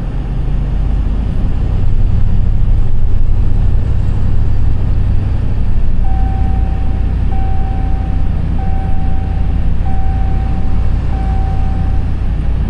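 Ram TRX's supercharged 6.2-litre V8 running under load as the truck tows a stuck car through snow, a steady low drone that picks up about a second in. About halfway through, an electronic warning chime beeps five times, each beep about a second long.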